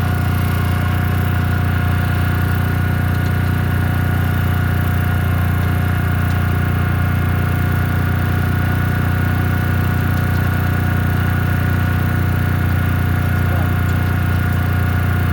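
Machinery running steadily: a constant low hum with a thin, steady whine above it and no change in speed.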